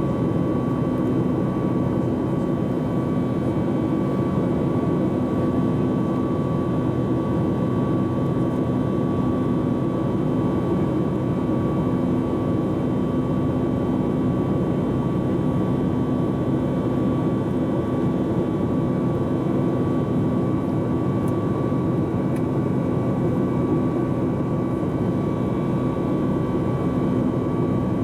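Steady cabin noise of a Boeing 737 MAX 8-200 airliner in flight, heard inside the cabin: an even rush of air and engine hum with a few constant tones, unchanging throughout.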